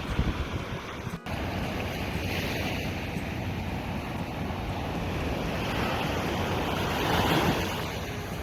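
Wind buffeting the microphone over rushing water and surf, a steady rough noise with a brief dropout about a second in.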